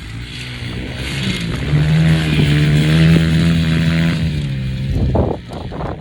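Small off-road vehicle engine running close by, its note rising a little about a second and a half in, then dropping and fading near the end.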